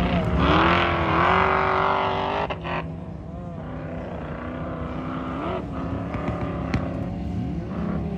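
Off-road vehicle engines revving on sand dunes. A loud rising rev in the first couple of seconds cuts off abruptly, followed by a quieter engine note with brief revs rising and falling.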